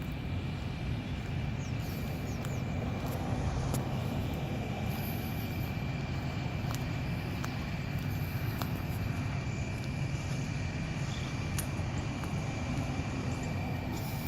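Semi truck running steadily on the road: a steady low engine drone with a thin, steady high whine and a few light clicks.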